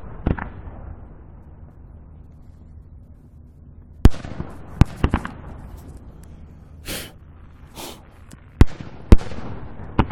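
Aerial fireworks shells bursting about a kilometre away, about eight booms at irregular spacing with a cluster about four to five seconds in. Each boom trails off in a rolling echo.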